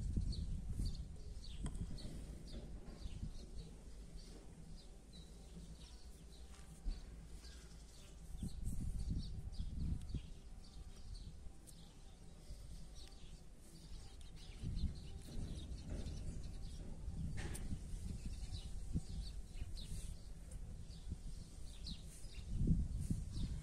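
Small birds chirping repeatedly in short high calls, over a low rumble that swells and fades several times.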